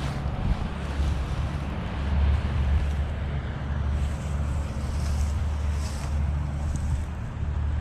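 Wind buffeting the microphone: a steady low rumble with a rough rushing noise on top.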